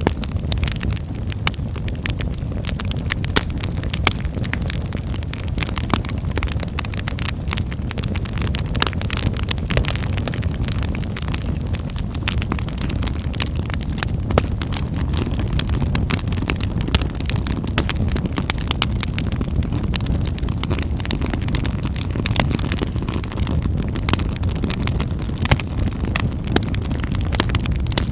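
Wood fire burning in a fireplace, crackling with many small sharp pops at irregular intervals over a steady low rumble.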